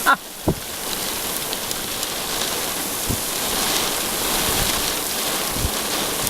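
Heavy rain pouring steadily onto a car during a severe thunderstorm, heard from inside the car, with a few short low thumps.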